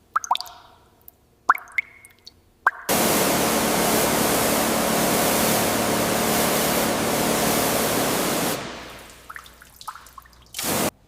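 Water dripping, short plops rising quickly in pitch, then a loud steady hiss like a spray for about six seconds that fades away. More drips follow, and a short burst of hiss comes just before the end.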